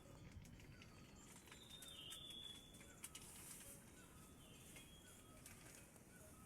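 Near silence: faint rural ambience with a few distant bird chirps and a couple of brief whistled bird notes.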